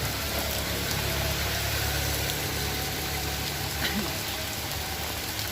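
Steady rain falling, with the low hum of a vehicle engine swelling underneath and fading out about four seconds in.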